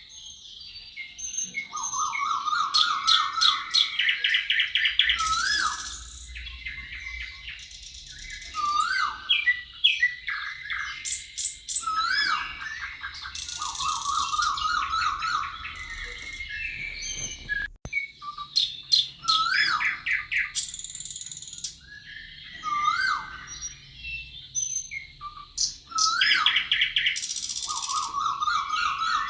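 Several songbirds singing together in a forest chorus: repeated rapid trills, rising-and-falling whistled notes, and high buzzy phrases overlapping throughout.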